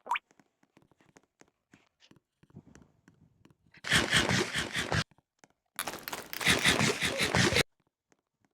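Two bursts of crinkling and crunching, about a second or two each, from a potato chip bag being handled, with faint crackles before them.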